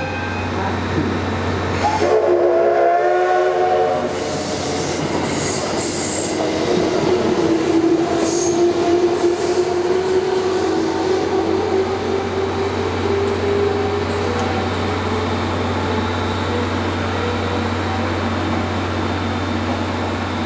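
JR West 221 series electric train pulling into the station: a short multi-tone horn blast about two seconds in, then wheel and rail noise with a long steady squeal as it slows.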